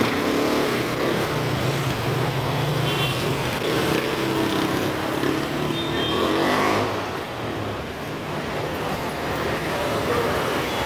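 Motorcycle engine running steadily on the move, with road and traffic noise around it; it eases off about seven seconds in.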